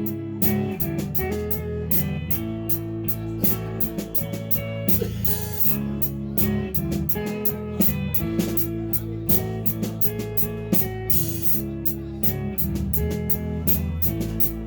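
Live rock band playing a song: guitars over a bass line, with drums keeping a steady beat of regular cymbal strokes.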